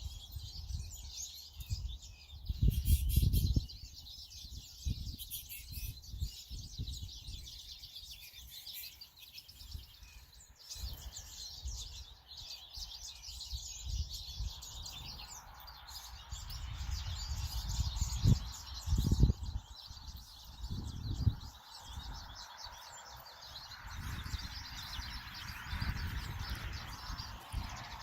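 Many small songbirds chirping and singing continuously in a high, busy chorus. Low rumbling gusts buffet the microphone now and then, loudest a few seconds in and again about two-thirds of the way through.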